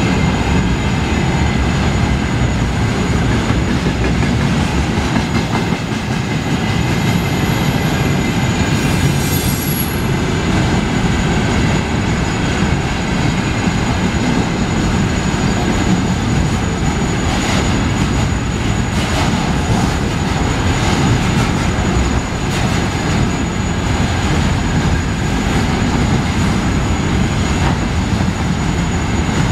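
A loaded container train's flatcars rolling past at speed, with the steady rumble of steel wheels on rail. A brief high wheel squeal comes about a third of the way in, and a run of clacks as wheelsets cross rail joints follows past the middle.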